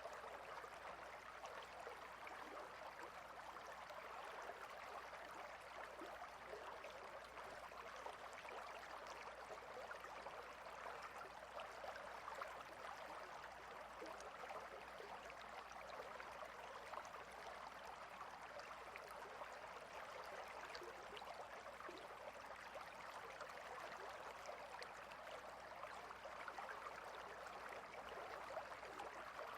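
Clear shallow river flowing steadily over and between rocks, a faint even rush of water with fine splashing.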